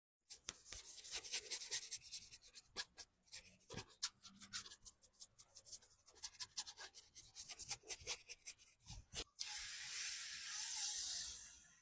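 Quick, irregular brushing and scrubbing strokes of a detailing brush on car interior surfaces, then a steady hiss starting about nine seconds in that fades away near the end.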